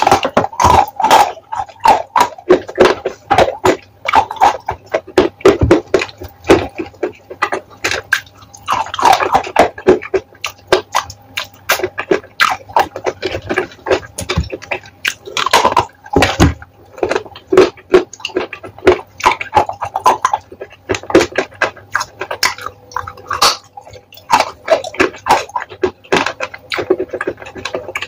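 Close-miked chewing and biting of wet chalk paste, with squelching as fingers squeeze the paste: a rapid, irregular run of wet clicks and smacks.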